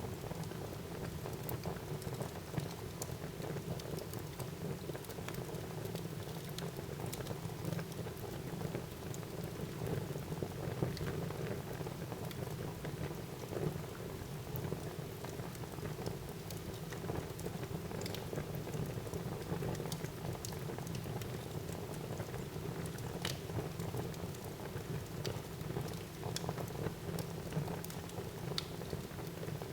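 Wood fire crackling in a fireplace: a steady low rustle of burning with frequent small, sharp crackles and pops scattered irregularly throughout, a few of them louder.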